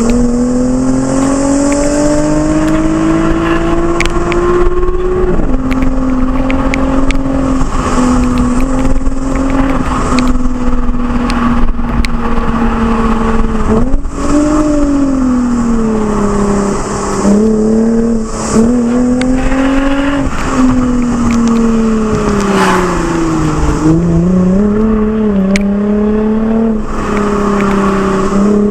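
Lexus IS engine breathing through an aftermarket Fi exhaust, driven hard: the exhaust note climbs steadily for the first few seconds, drops sharply at a gear change, then rises and falls repeatedly as the throttle is worked on and off.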